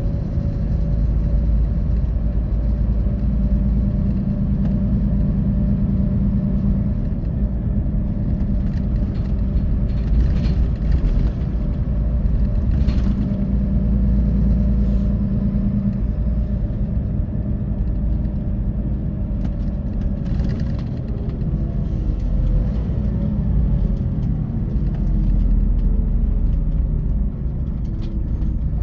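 Scania K450EB coach on the move, heard from inside the bus: the diesel engine and road rumble run steadily, with a few faint rattles. Over the last several seconds the engine note falls in pitch as the bus slows or eases off.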